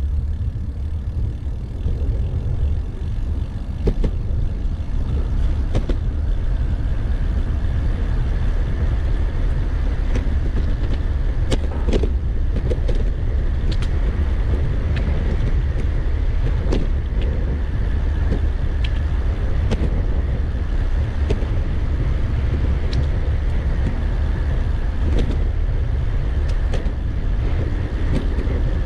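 Wind buffeting a bike-mounted GoPro Hero 8 Black's microphone while riding, with road traffic noise and scattered sharp clicks and rattles.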